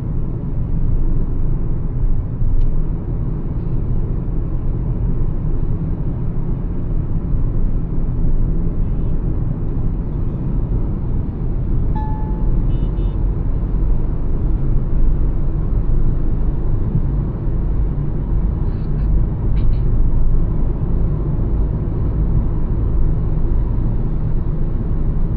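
Mahindra XUV300 driving at highway speed: a steady low rumble of engine and road noise.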